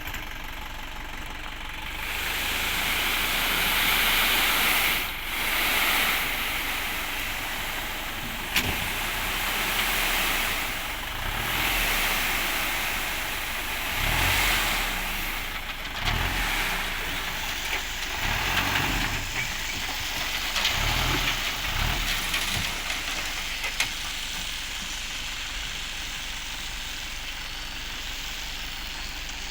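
Dump truck engine running, with rushes of hissing noise that swell and fade from about two seconds in until past twenty seconds, then settle back to a steady rumble.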